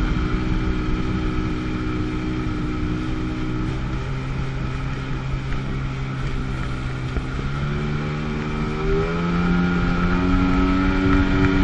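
1997 Sea-Doo GTS personal watercraft's two-stroke 720 engine running at a steady, lower throttle, then revving up about eight seconds in and holding a higher pitch.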